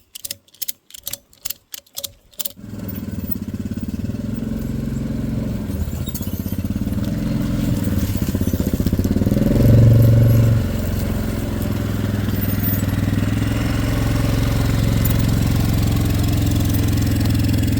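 A rapid run of clicks, then a small petrol engine catches and runs steadily, revving up briefly about ten seconds in.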